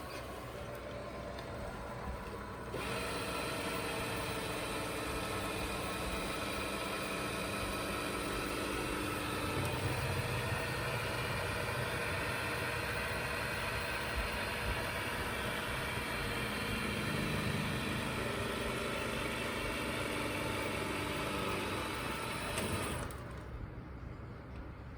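Ecovacs Deebot T10 Turbo robot vacuum running: a steady motor hum with several held tones that comes on about three seconds in and stops a couple of seconds before the end, its pitch shifting a couple of times along the way.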